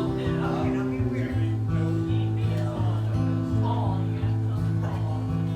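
Acoustic guitar strumming chords as the instrumental lead-in to a song, played live, with people talking faintly underneath.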